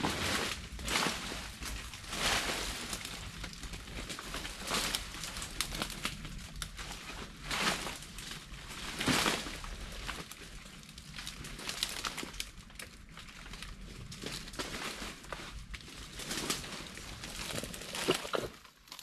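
Repeated rustling and crunching in leaf litter and brush, in irregular bursts about once a second.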